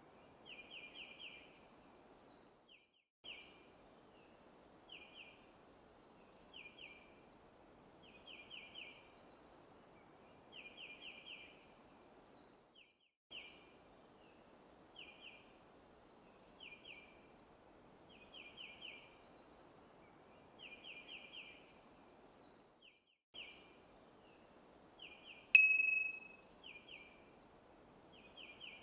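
Recorded forest ambience: a songbird repeating short phrases of three or four quick chirps about every two seconds over a faint steady hiss, the background cutting out briefly three times. Near the end a single bright bell ding rings out and fades over about a second, the timer's end-of-countdown alert.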